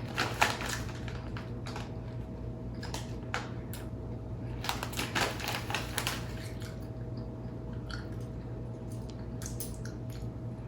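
Cheddar barbecue chips crunching as they are bitten and chewed: several bursts of crisp cracks, over a steady low hum.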